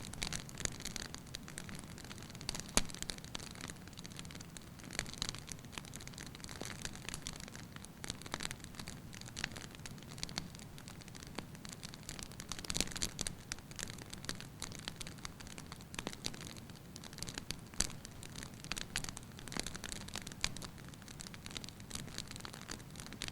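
Wood fire burning in a fireplace: a steady low hiss with irregular crackles and pops, a few of them sharper and louder.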